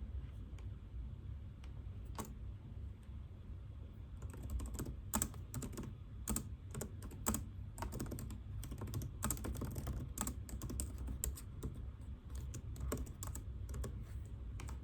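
Typing on a computer keyboard: irregular, rapid key clicks start about four seconds in and continue almost to the end, over a steady low room hum.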